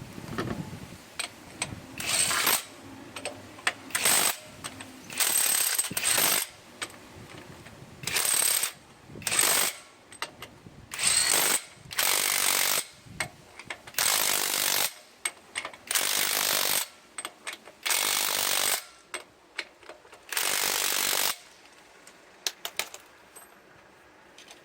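Impact wrench hammering on truck wheel lug nuts in about a dozen short bursts, each under a second or so, with brief pauses and small clicks between them as it moves from nut to nut.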